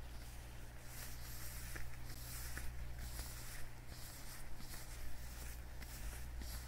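Leather gloves worn on the hands, rubbed and squeezed together in irregular strokes of rustling and creaking, over a steady low hum.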